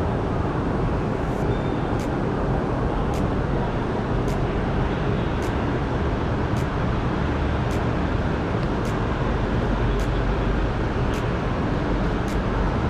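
Steady outdoor background rumble of traffic, with faint, sharp high clicks about once a second.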